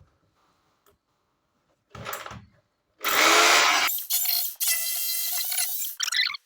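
A rotary hammer drill starts about three seconds in and runs in a few bursts with short stops, drilling a ring of holes through the wall for a chimney pipe opening. A single dull thump comes just before it.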